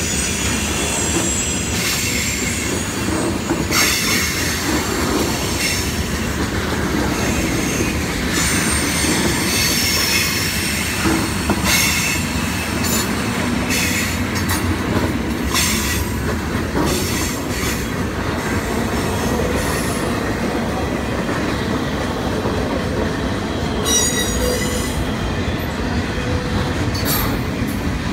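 Freight cars of a Norfolk Southern train rolling past in a steady rumble, with the wheels squealing high and clicking now and then.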